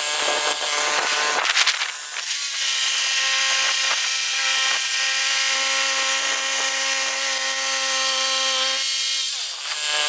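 Woodland Mills HM122 portable bandsaw sawmill running and cutting a pine log, with a steady engine note and the hiss of the blade in the wood. Near the end the engine note drops.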